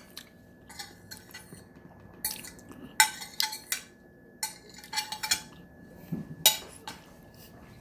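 Dishes and utensils clinking and scraping irregularly at a meal table, with two sharper knocks, about three seconds in and again about six and a half seconds in.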